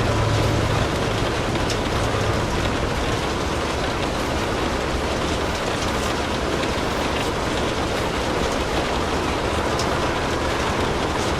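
Steady rain, with a few faint sharp crackles of a wood fire and a low rumble in the first couple of seconds that fades.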